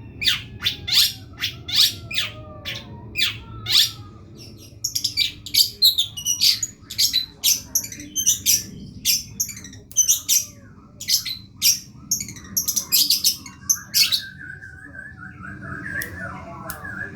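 Long-tailed shrike (cendet) singing: a fast run of sharp, harsh notes and short chatters, with a wavering whistled phrase near the end.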